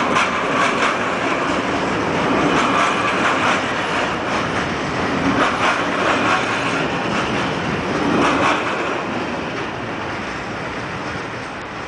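Freight train of covered box wagons passing close by: a steady rumble with the wheels clacking repeatedly over the rail joints, fading a little over the last few seconds.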